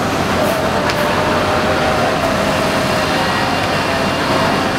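Steady noise of a passenger train running over an elevated rail bridge, mixed with busy road traffic, including motorbikes, below it.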